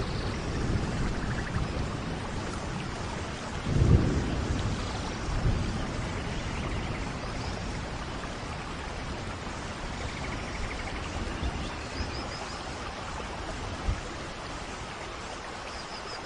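Steady rainforest rain with low rumbles of thunder, the loudest about four seconds in and a smaller one just after, fading to rain alone in the second half.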